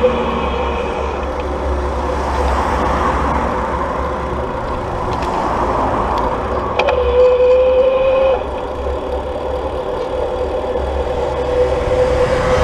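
Electric bike motor whining steadily on an uphill climb, over a low rumble. About seven seconds in there is a click, and the whine steps up louder for about a second and a half before it settles again.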